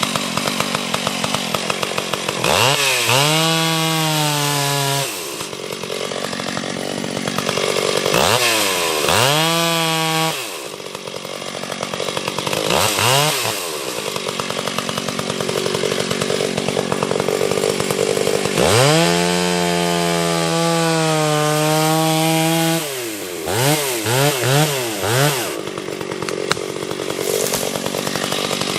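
Two-stroke chainsaw revved up and held at a lower, steady pitch for a few seconds at a time, as in a cut into wood, three or four times, idling in between. It gives a few quick throttle blips near the end.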